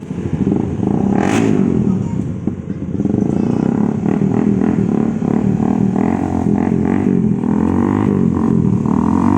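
Motorcycle engines running and revving unevenly, with a short sharp burst of noise about a second and a half in.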